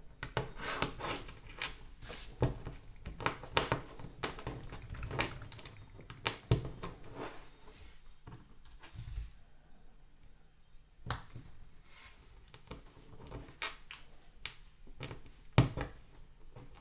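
Plastic LEGO pieces being handled and pressed together: irregular clicks and taps, busier in the first half, with one sharp click near the end.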